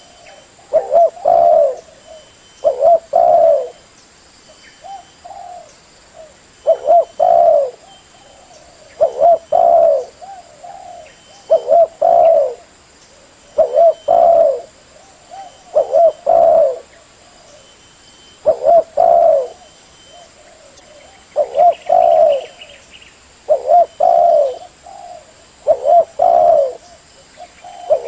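Spotted dove cooing: its call phrase repeats about every two seconds, with a few softer coos in between. It is used as a lure call for trapping doves.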